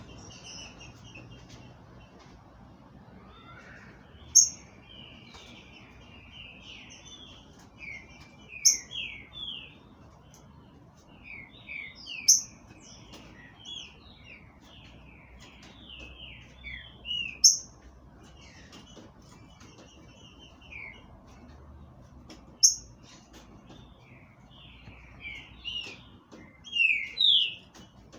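Trinca-ferro (green-winged saltator) singing: phrases of short, downward-slurred whistles, with a loud sharp high note every four to five seconds and softer notes in between.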